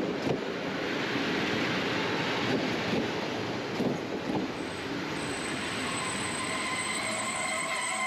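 Train rolling on the rails with a steady rumble. About two-thirds of the way through, high steady wheel or brake squeal sets in, with several squealing pitches at once.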